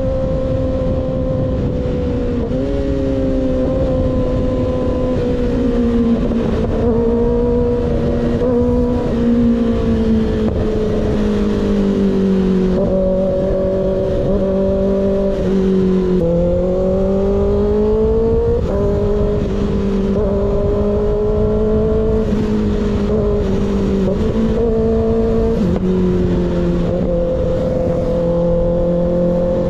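Motorcycle engine fitted with an unbaffled M4 GP19 slip-on exhaust, riding along under load. Its note sinks slowly, then steps back up several times as the throttle and gears change.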